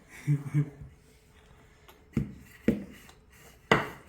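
A short two-part hum from a voice, then three sharp knocks, the last the loudest.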